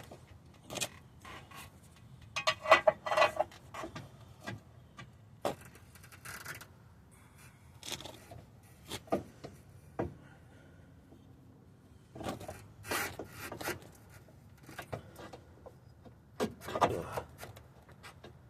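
Irregular knocks, clinks and scrapes of metal suspension parts and hand tools being handled, with louder clusters about three seconds in, around thirteen seconds and near the end.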